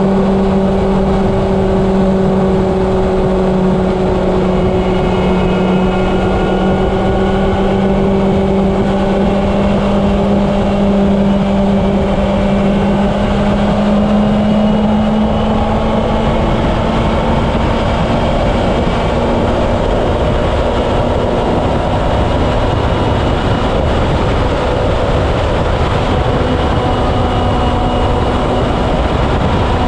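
Honda CB750's inline-four engine running steadily at highway cruising speed, its pitch drifting only slightly, with wind rushing over the helmet-mounted camera.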